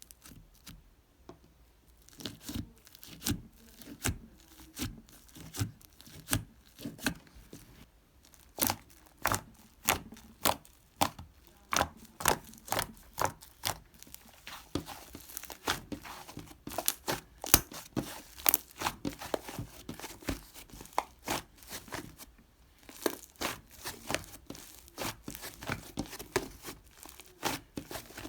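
Fluffy pink clay slime being pressed and stretched by hand, giving sharp crackling pops and snaps. They start about two seconds in, one or two a second at first, then come thicker and faster, with a brief pause near the end.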